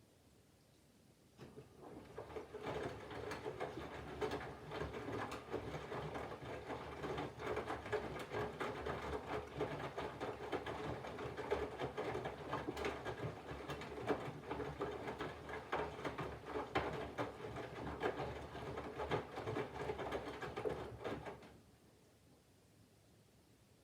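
Candy front-loading washing machine's drum turning for about 20 seconds during the water-heating phase of a 40° wash, with laundry and water tumbling inside and the motor running. It starts about a second in and stops abruptly near the end.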